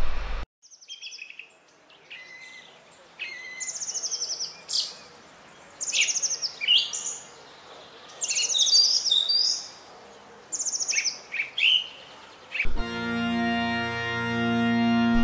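Small songbirds singing and calling, with short high chirps and quick trills. Organ music comes in about two and a half seconds before the end.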